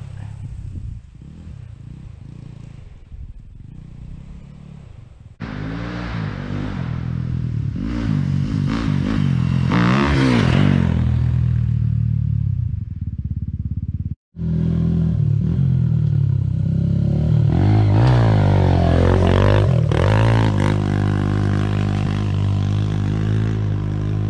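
Four-stroke dirt bike engines running, revving up and falling back repeatedly in rising and falling sweeps. The sound is quieter for the first few seconds, then cuts abruptly to louder engine noise about five seconds in, and breaks off sharply and resumes about fourteen seconds in.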